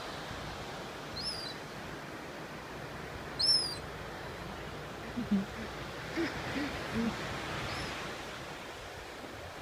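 Gulls giving short, high, arched cries, four of them, the loudest about three and a half seconds in, over a steady hiss of surf and wind. A few short low hoot-like sounds come between about five and seven seconds in.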